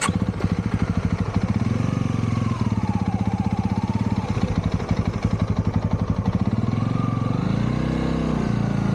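Honda Rebel motorcycle engine running under way, a steady rapid firing beat, with the revs changing about two seconds in and again near the end.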